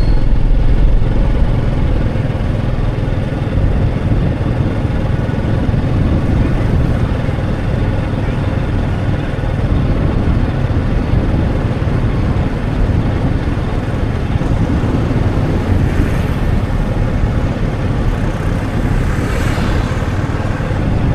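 Motorcycle running steadily on the road, with a dense low rumble of wind buffeting the microphone while riding.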